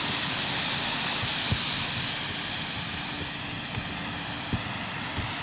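Steady hiss of rain falling, with a few soft knocks.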